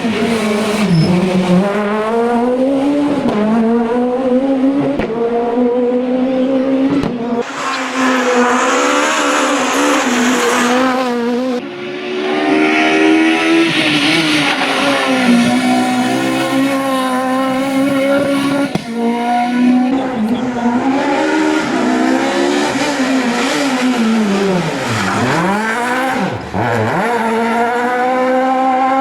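Super 1600 rally cars' high-revving 1.6-litre four-cylinder engines at full throttle, the pitch climbing through each gear and dropping sharply at every shift and lift, with tyre squeal on the loose surface.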